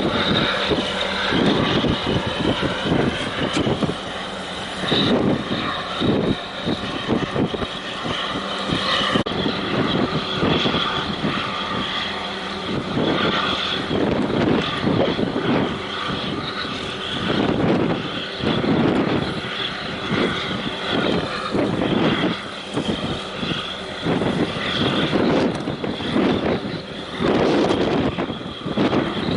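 Steady, droning engine hum with many even tones, with irregular gusts of wind buffeting the microphone.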